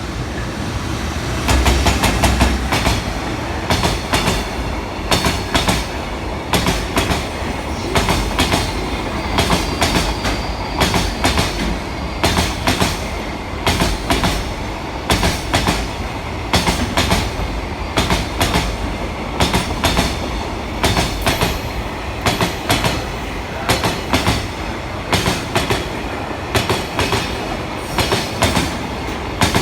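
Freight train hauled by an EF210 electric locomotive passing through at speed, its wagon wheels clattering over rail joints in a regular repeating rhythm. The clatter rises sharply about a second and a half in and keeps on steadily.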